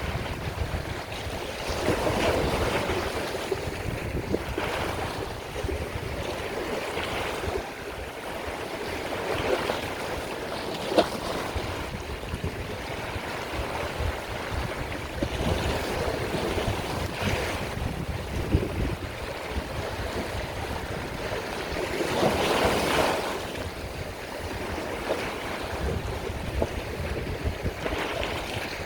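Sea waves washing in, the surf swelling and falling back every few seconds, with one larger surge about three-quarters of the way through.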